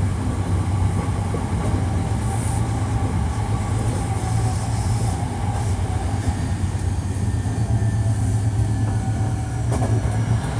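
Hankyu 1300 series train heard from inside the car, running with a steady low rolling rumble while the traction motors' whine slowly falls in pitch as the train slows for a station. The car has an unusual, distinctive acceleration and braking sound.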